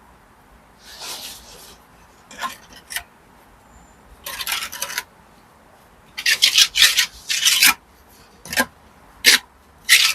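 A series of short, irregular scraping strokes on brick and mortar during hand bricklaying, with a busier run of strokes about six to eight seconds in.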